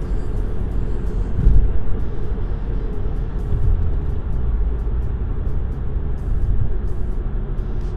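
Exhaust of a 2013 Mazdaspeed3 with its resonator deleted and 4-inch tips fitted, running with a steady low drone and a few brief swells in loudness. The engine is a turbocharged 2.3-litre four-cylinder.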